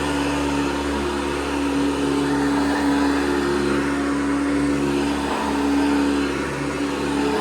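1982 Hoover Guardsman upright vacuum cleaner running: a steady motor hum with a strong held tone over a rush of air.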